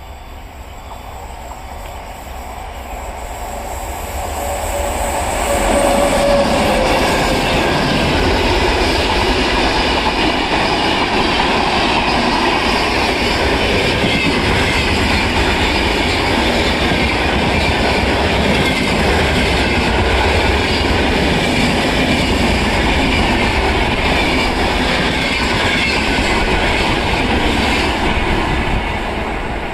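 Express passenger train hauled by a WAP-7 electric locomotive running past: the noise builds over the first six seconds as it approaches. It then holds as a loud, steady rumble of wheels on the rails while the coaches go by, easing slightly near the end.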